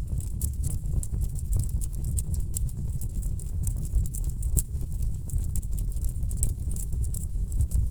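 Wood fire burning in a fireplace, crackling with many irregular sharp pops over a steady low rumble.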